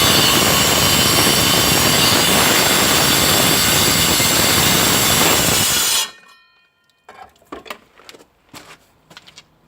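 Makita DGA900 twin-18-volt 9-inch cordless angle grinder cutting into a concrete slab under a water feed, a loud steady grinding. About six seconds in it stops cutting and the disc winds down, followed by a few light clicks and knocks.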